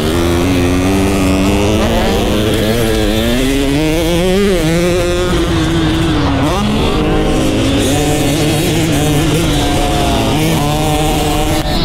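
Dirt bike engine on a motocross track, revving up and down with the throttle: the pitch climbs for the first few seconds, drops sharply about six and a half seconds in, then holds higher and steadier through the gears.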